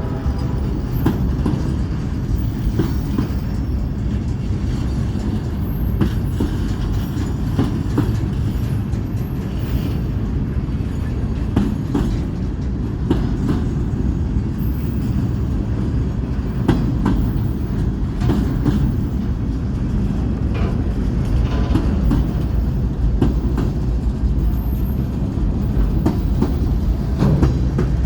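Freight train rolling past, a steady low rumble of the cars with irregular clacks of the wheels over rail joints.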